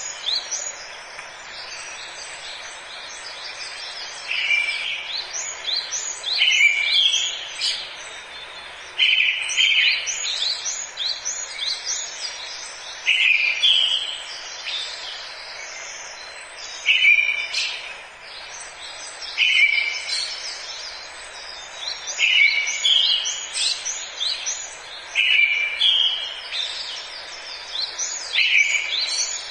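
Forest birdsong: several birds singing and chirping, with one louder call repeated every two to four seconds among many quick high chirps, over a steady background hiss.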